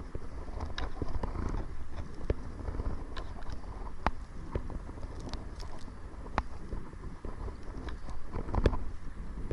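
Kayak paddling into the wind: a steady wind rumble on the microphone with irregular sharp clicks, knocks and splashes from the paddle and water against the hull.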